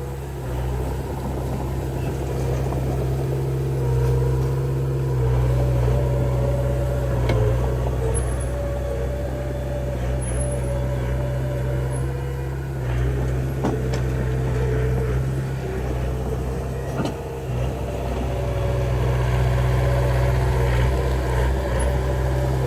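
Heavy earthmoving machinery's diesel engine running steadily under load, a deep hum that swells and eases slightly, with a few sharp metallic clanks.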